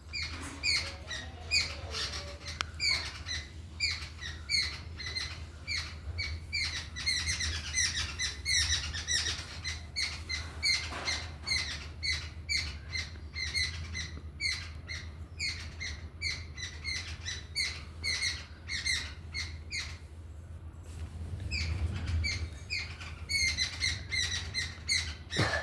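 Sparrows chirping, many short chirps overlapping in a steady stream, easing off briefly about three-quarters of the way through, over a steady low hum.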